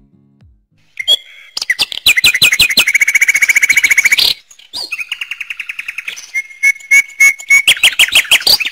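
Small songbirds chirping and trilling in quick runs of high notes, several calls overlapping. They start about a second in and break off briefly about halfway through.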